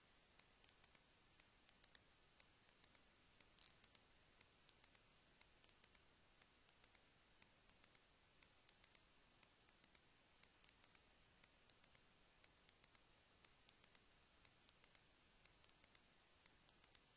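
Near silence: faint hiss with scattered faint clicks, a few a second at uneven spacing.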